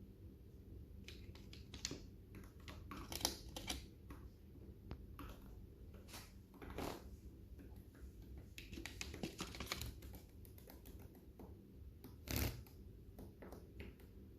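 Lovebirds eating seeds, beaks cracking husks in irregular dry clicks and crunches, with louder cracks about three seconds in and near the end.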